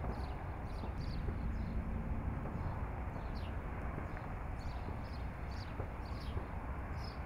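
A small bird chirping over and over, short high falling chirps two or three times a second, over a steady low outdoor rumble and hiss.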